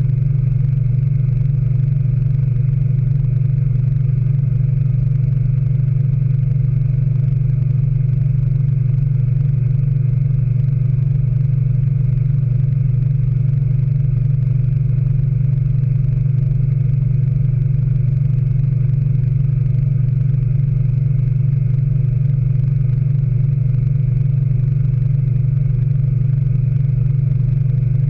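Speed Queen 9 Series washing machine in its final spin, the drum turning at a steady speed with a constant low hum.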